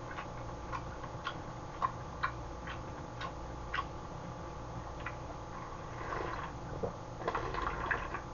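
Soft, irregular wet mouth clicks of someone chewing a mouthful of abalone, about two a second, over a faint low hum. Near the end, quieter sipping noises as broth is drunk from a metal bowl.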